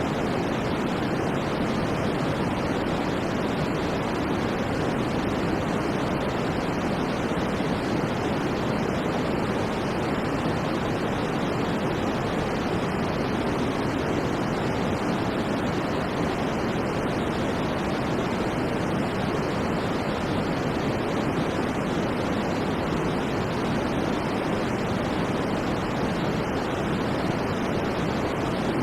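Continuous white noise for sleep: an even, unchanging hiss, fullest in the lower and middle range and thinner at the top, with no breaks or events.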